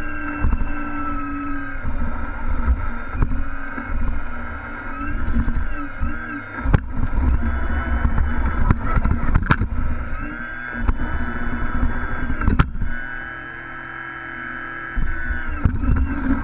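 Engine sound from RC scale trucks, running and revving in steady droning tones, over a low rumble with scattered knocks and clicks.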